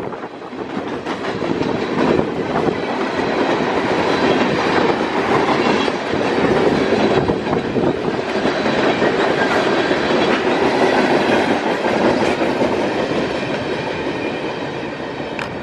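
Train passing close by: a steady rumble of railcar wheels on the rails with some clatter over the joints, with faint squealing tones from the wheels, swelling at the start and easing off near the end.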